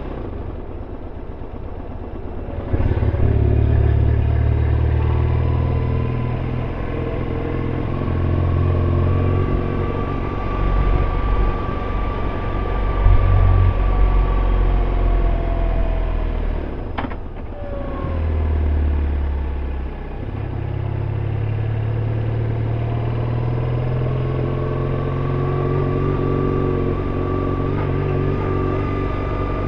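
BMW R1150RT's boxer-twin engine running under way. It pulls up harder about three seconds in, eases off briefly past halfway with a single sharp click, then pulls steadily again.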